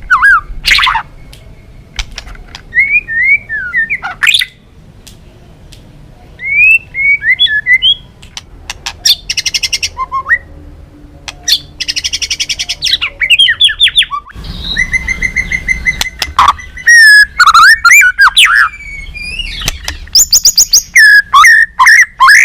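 White-rumped shama singing a varied song: slurred whistled phrases, fast high trills and runs of repeated sharp notes, separated by short pauses.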